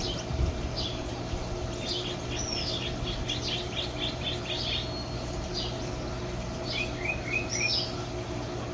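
Small aviary finches chirping: many short, high calls, coming thickest a couple of seconds in, with a few short falling notes near the end, over a steady low hum.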